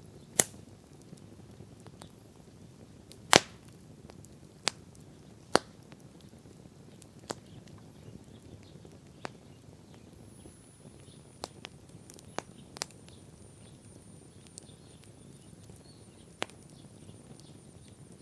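Wood fire crackling: sharp, irregular pops and snaps of burning wood, the loudest about three seconds in, over a low steady hiss of the flames.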